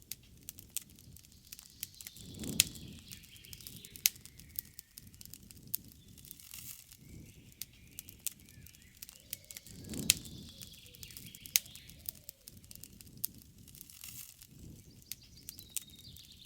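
Wood campfire crackling, with many sharp pops and snaps and a low rush of flame swelling up a couple of times. Birds chirp faintly in the background.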